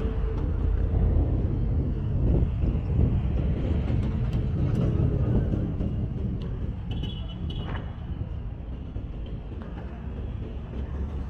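Street traffic: a steady low rumble of vehicles passing, with a brief high-pitched squeal about seven seconds in.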